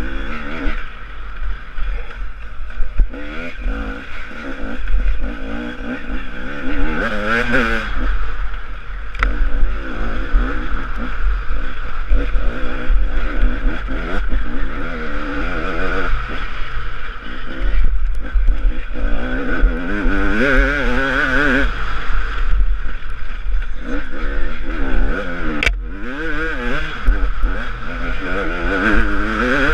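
Husaberg TE 300 two-stroke single-cylinder enduro engine, heard from the rider's helmet, revving hard and easing off again and again, its pitch rising and falling with each burst of throttle.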